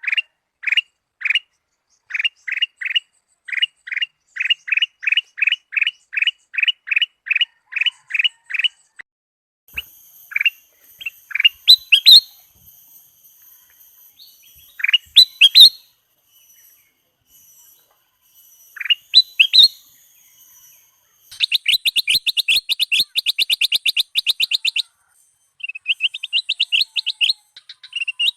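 Kutilang emas, a bulbul, singing: a steady series of short whistled notes, about two a second, then scattered rising whistles, then a fast rattling run of chips about three quarters of the way in.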